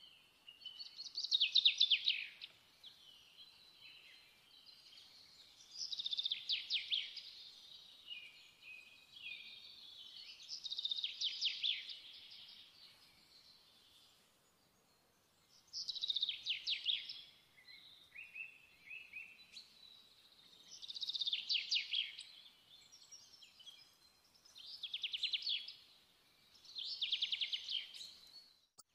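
A songbird singing, with short trilled phrases repeated about seven times, a few seconds apart.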